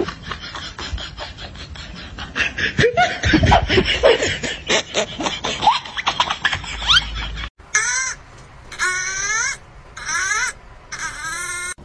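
Laughter. In the second half it comes as four short bursts of a baby's high, quick giggling.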